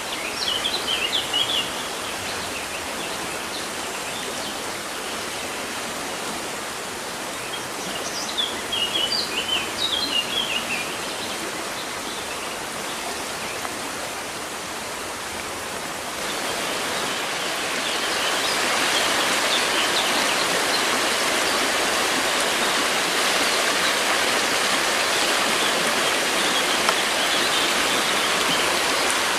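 River water rushing steadily, with a small bird chirping in quick runs at the start and again about eight seconds in. The water grows louder a little past the halfway point.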